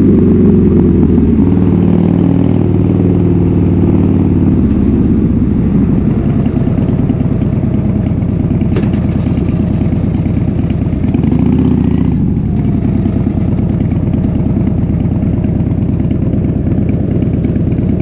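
Harley-Davidson Fat Bob V-twin through a KessTech aftermarket exhaust, coming off the throttle with the engine note falling over the first few seconds, then idling with an even, loping beat. There is a small rise in revs about twelve seconds in.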